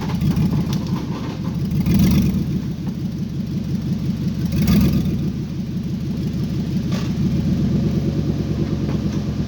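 An engine running steadily, swelling in loudness twice, about two seconds in and again near five seconds.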